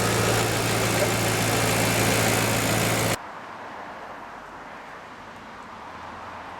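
A Maserati Quattroporte's Ferrari-designed 4.2-litre V8 idling steadily. About three seconds in, the sound cuts off abruptly to a much quieter, distant hum.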